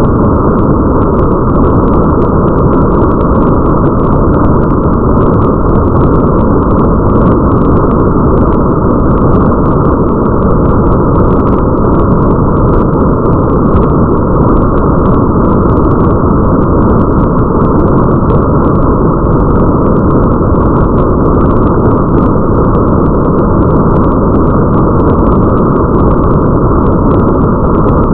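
Steady, muffled rain ambience with a deep rumble under it and faint scattered drop ticks on top, even in level throughout.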